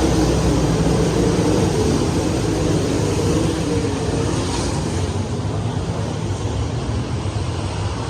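Sprint car engines droning steadily, slowly growing quieter.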